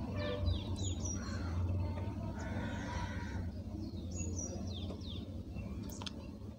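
Small birds chirping, with short chirps that fall in pitch in a cluster at the start and again about four seconds in, over a low steady hum.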